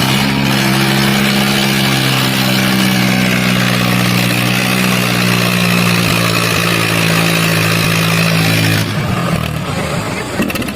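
Diesel tractor engine running hard at steady high revs, its note holding level, then changing and breaking up about nine seconds in.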